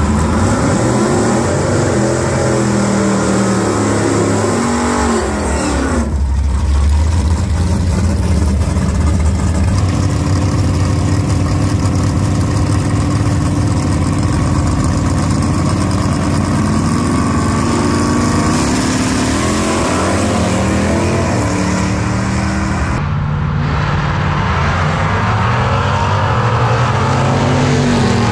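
Loud V8 engines of two drag cars, one of them a 1974 GTO with a 406 small-block Chevy, running at the starting line and revving up and down hard. The sound changes abruptly twice where the footage is cut.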